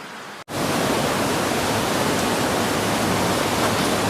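Floodwater rushing steadily, a loud even roar with no distinct impacts. It cuts in suddenly after a brief gap under a second in.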